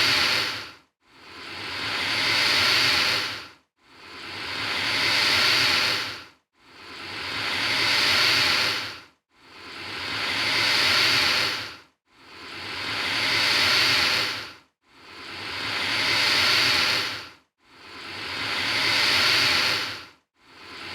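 An alligator hissing, the same long hiss repeated about eight times, one every two to three seconds. Each hiss swells for about two seconds, then breaks off abruptly into a brief silence.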